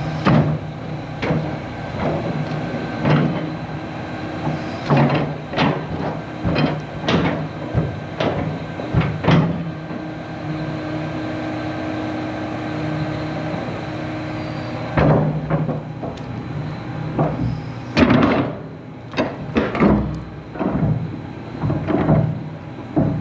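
John Deere 350G excavator's diesel engine running steadily, with a series of irregular metal clunks and knocks as the boom and bucket move. The knocking is typical of the worn pins and bushings the machine needs repaired.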